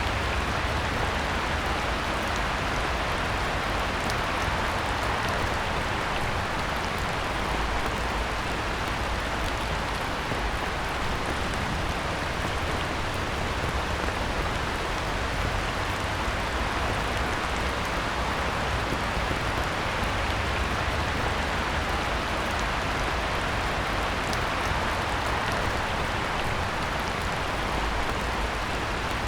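Steady heavy rain falling on a pond's surface, a dense, even hiss with fine drop ticks and a low rumble underneath.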